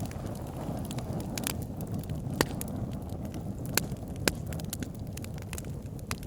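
Wood fire in a fireplace crackling, with a steady low rush of flames under irregular sharp pops and snaps, three louder pops near the middle.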